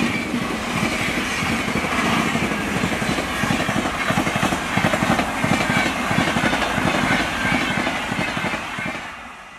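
Express passenger train coaches passing at speed close by: a steady rush of wheels on rail with rapid clattering knocks, fading out near the end.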